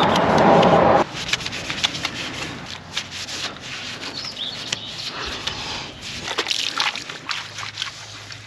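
A loud rushing noise about a second long that cuts off suddenly, then irregular rubbing and scrubbing of a cleaning tool on a car's surface.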